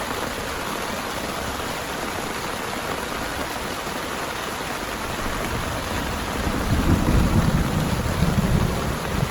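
Heavy rain falling steadily, with a low rumble of thunder building about six seconds in and rolling on louder to the end.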